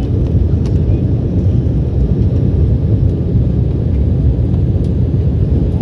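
Steady low rumble of engine and airflow noise inside the cabin of an Embraer E190 jetliner, its General Electric CF34 turbofans at climb power after takeoff.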